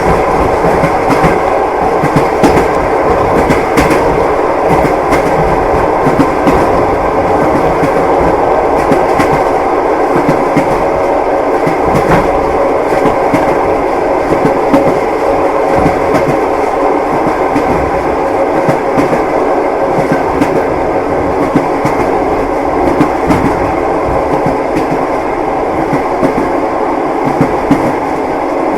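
Train wheels clattering over the rails as a passenger carriage rolls along. It is a steady rumble with scattered clicks throughout.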